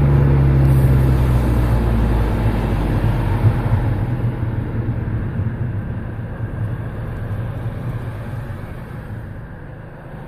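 Turbocharged car engine and road noise heard from inside the car. The engine note drops a little early on and the whole sound fades steadily, as when the car eases off and slows in traffic.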